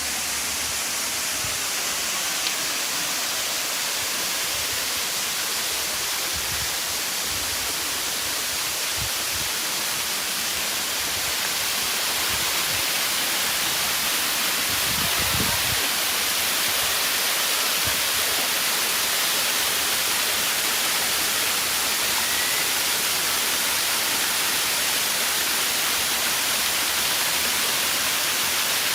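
Waterfall on the Platanistos stream: a steady rush of falling water that grows a little louder about halfway through.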